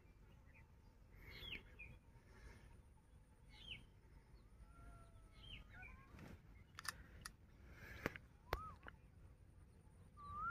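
Faint, scattered bird chirps, a handful of short calls that bend in pitch, over near-silent outdoor quiet, with a few light clicks in the second half.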